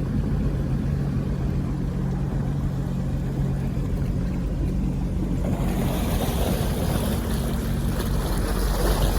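Boat motor running steadily. About halfway through, a broad rush of water and wind noise rises over it.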